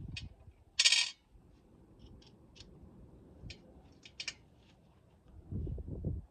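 Small metal objects clinking: a short, bright metallic clatter about a second in, then a few light metal clicks, with dull handling thumps near the end.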